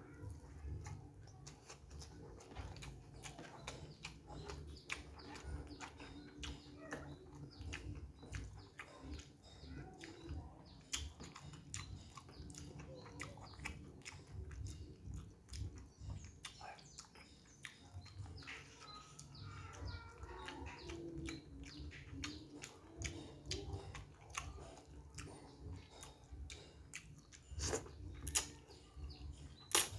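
Close-miked chewing of rice and noodles eaten by hand, with many quick wet mouth clicks and smacks; near the end noodles are sucked into the mouth and the clicks grow louder.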